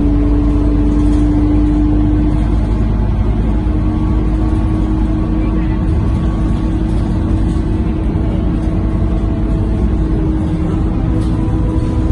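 Scania K230UB bus running under way, heard from inside the passenger cabin: a steady diesel drone with a constant whine that steps up slightly in pitch about two and a half seconds in.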